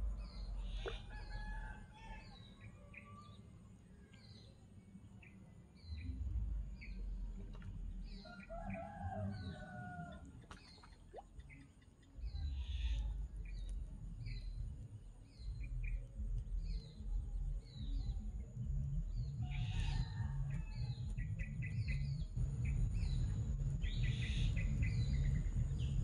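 Birds calling: one bird repeats a short high chirp more than once a second, and louder, lower calls break in now and then. A low rumble comes and goes underneath.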